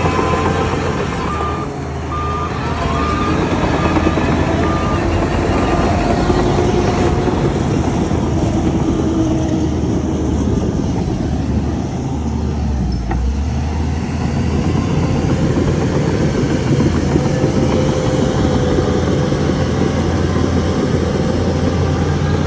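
Heavy diesel machinery running steadily with a deep engine drone. A reversing alarm beeps repeatedly for a few seconds near the start.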